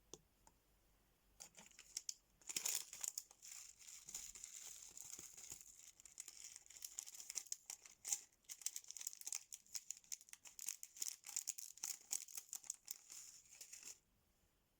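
Thin plastic packaging crinkling as it is handled, in dense crackles that start about a second and a half in and stop abruptly near the end.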